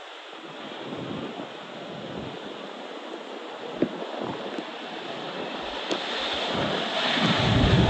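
Gusty wind rushing past and buffeting the microphone, growing steadily louder, with a few short pops and a deep rumble building near the end.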